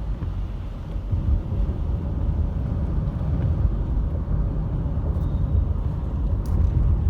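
Steady low rumble of a car driving at night on a wet road, engine and road noise heard from inside the cabin, getting a little louder about a second in.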